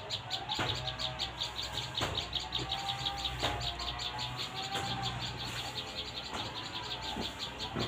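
Outdoor bird calls: a rapid, steady high-pitched chirping pulse of about ten a second, with a few sharp single chirps scattered through it.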